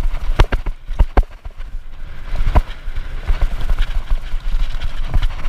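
Hardtail mountain bike clattering down a rocky trail: sharp knocks and rattles as the wheels hit loose stones, strongest about half a second and one second in and again near the middle, over a steady low rumble.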